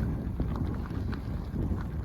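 Blizzard wind buffeting the microphone, a steady low rumble with gusts.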